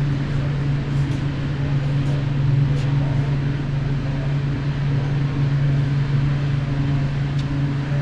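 A steady low mechanical hum, even in level throughout, with a few faint ticks.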